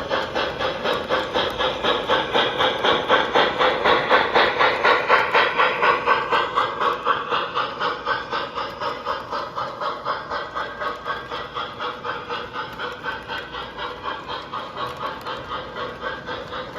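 Model steam locomotive's sound unit chuffing in a quick, even rhythm with a hiss, loudest a few seconds in and then fading as the engine runs on.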